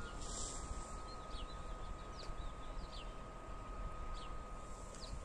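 Small birds chirping: short, quick, falling chirps repeated irregularly about every half second, over a steady low outdoor background rumble.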